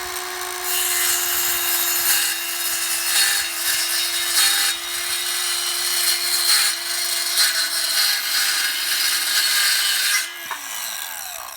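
Small circular saw cutting across a wooden board, its motor running at a steady pitch under the noise of the blade in the wood. Near the end the cut finishes and the motor is released, its pitch falling as the blade spins down.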